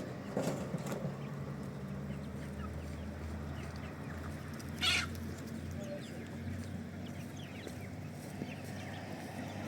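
Chickens clucking, with one short, louder call about five seconds in, over a steady low hum.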